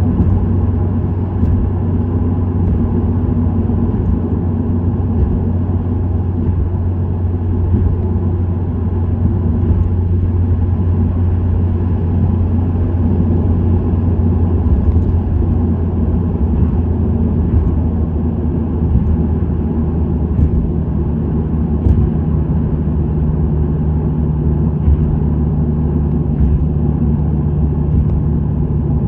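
Subaru WRX STI (VAB) turbocharged flat-four with an STI Performance muffler, cruising steadily with a low exhaust drone and road noise. A somewhat higher engine tone comes in a little past two-thirds of the way through as the revs change.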